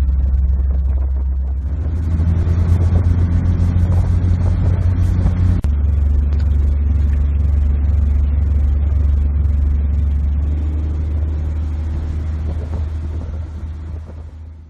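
Engine running steadily with a low drone, shifting in pitch about five and a half seconds in, then fading out near the end.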